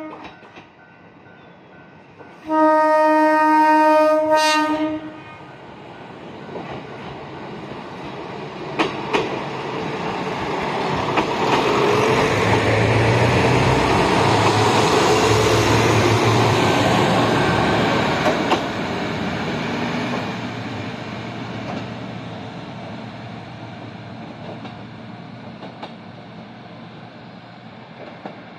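Shimabara Railway diesel railcar train passing through a station without stopping. The end of a short horn blast is followed about two and a half seconds in by a longer two-second blast of the horn chord. Then engine and wheel rumble builds as the train passes close, with a few wheel clicks over rail joints, and fades slowly as it moves away.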